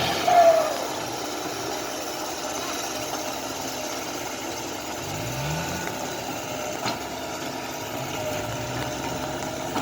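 Car engine running at idle, with a brief rise in revs about five seconds in.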